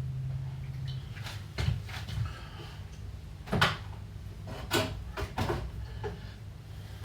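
Kitchen clatter: a few sharp knocks and clicks, the loudest about three and a half seconds in, over a steady low hum.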